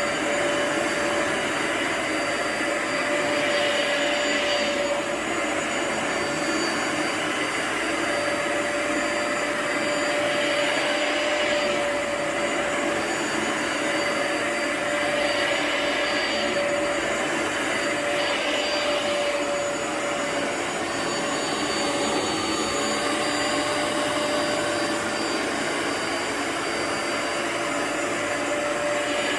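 A floor cleaner's vacuum motor runs steadily over a rug with a constant whine, its sound shifting slightly every few seconds.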